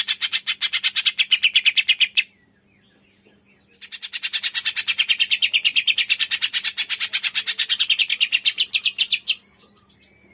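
Cucak ijo (green leafbird) giving its 'tembakan' call: a fast run of sharp repeated notes. It breaks off about two seconds in and starts again about four seconds in, running for another five seconds or so.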